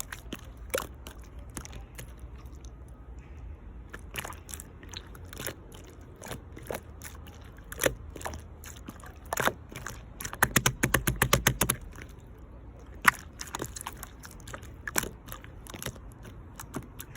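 Clear slime being worked by hand, with scattered wet clicks and air-bubble pops. A little past the middle comes a quick run of louder pops, several a second.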